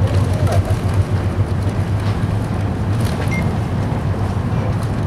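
Steady low rumble and hiss of an E5 series Shinkansen car under way, heard inside the passenger cabin, with a few faint ticks.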